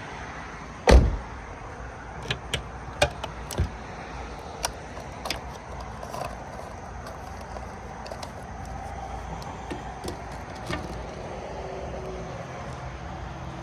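Car door shutting with one loud thump about a second in, then scattered light clicks and knocks over a steady low rumble.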